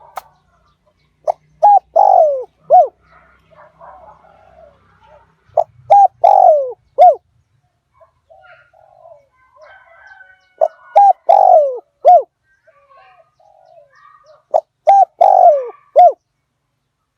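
Spotted dove cooing. Four phrases of several short coos, each with one longer falling note, repeat about every four seconds. This is the song of a decoy dove, used to call wild spotted doves in.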